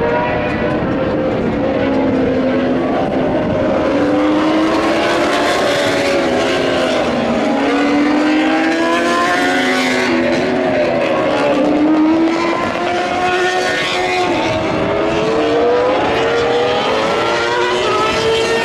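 Several MotoGP racing motorcycles' 1000 cc four-stroke engines revving hard at the same time, their pitch rising and falling over and over through gear changes and braking.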